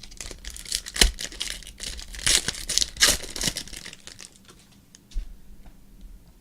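Plastic-foil trading card pack wrapper crinkling and tearing as a pack is opened, with a few sharp clicks of cards being handled. The crackling is densest over the first four seconds and then dies down to faint handling.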